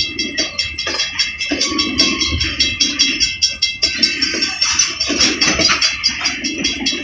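Railroad crossing signal bells ringing in a fast, even rhythm while a freight train rolls past with a rumble of wheels on rail.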